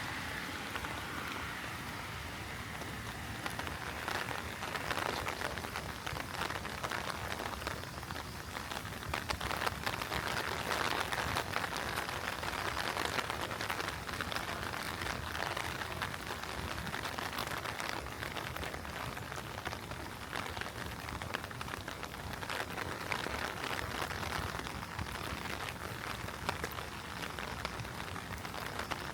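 Heavy rain falling steadily, a dense, even hiss of countless drop hits.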